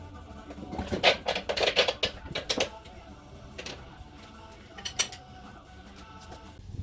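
Metal clanking and rattling as the engine is hauled out of the car's engine bay: a quick run of clanks about a second in, then two single clanks.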